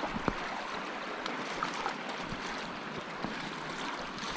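Water rushing and splashing as a mountain bike rides through a shallow creek crossing, with a few sharp knocks, the loudest about a third of a second in.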